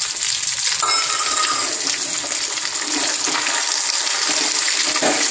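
Vegetables sautéing in hot oil in a clay pot, a steady sizzling hiss, with a metal slotted spoon stirring through them.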